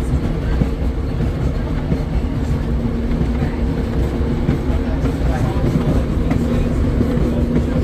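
Philadelphia Suburban Transportation Co. interurban trolley car #76 running along the track, heard from on board: a steady rumble of wheels on rail with a steady motor hum that grows stronger partway through, and scattered light clicks from the rail.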